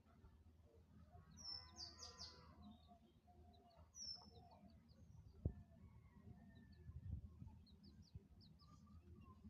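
Domestic chicks peeping in short, high, falling chirps: a cluster about two seconds in, then scattered peeps through the rest. A single sharp tap comes about halfway.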